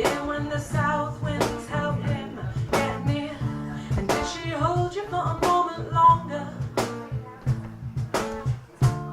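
Guitar strummed in a steady rhythm through a song's closing bars, ending on a final strum near the end that is left to ring out.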